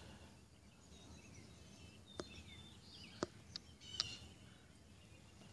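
Faint outdoor background with distant birds chirping in short gliding notes, and a few soft clicks about two, three and four seconds in.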